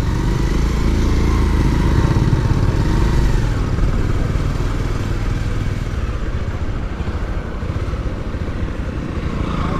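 Motorcycle running while being ridden, with a dense low rumble.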